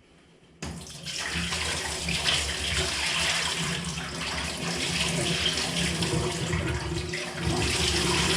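Water running steadily from a tap, starting suddenly about half a second in.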